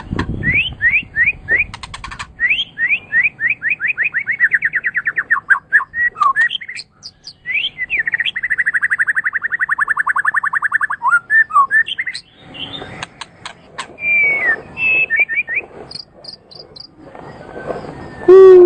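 Songbird singing a varied, loud song of quick sweeping whistles and rapidly repeated notes, with a long fast trill about eight seconds in and higher chirps near the end.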